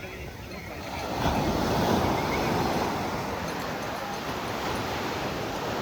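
Sea surf washing onto the beach, with wind buffeting the microphone; the rush swells about a second in and stays up.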